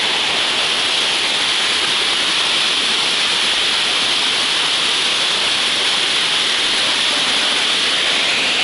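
Waterfall rushing: a loud, steady rush of falling water that does not change.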